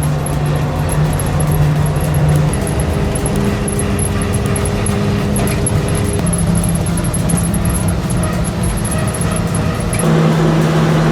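Heavy diesel engine of a Caterpillar 666 motor scraper running as the machine drives along a road. The engine note holds steady, then changes pitch a couple of seconds in and again near the end.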